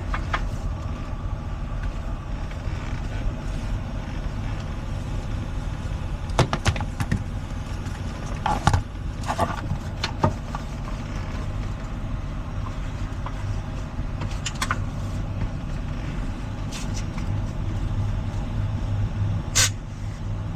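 Truck engine idling steadily, with scattered sharp clicks and knocks about a third of the way in, near the middle and near the end.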